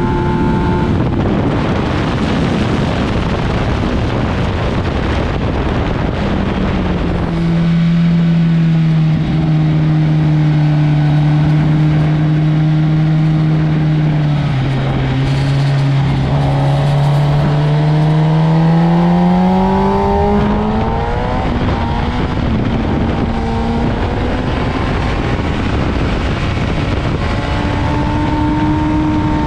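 Motorcycle engine at speed on a race track under heavy wind rush: the engine note holds steady for several seconds, drops briefly, then climbs in pitch as the bike accelerates and fades out about two-thirds of the way in, returning near the end.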